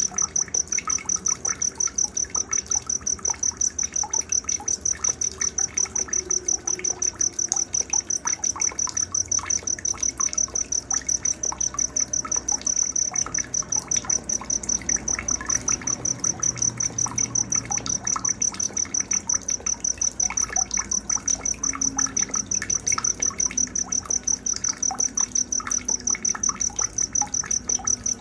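Night-time nature soundscape of bird and insect calls: a high, piercing chirp repeats about five times a second without a break, over softer scattered bird chirps.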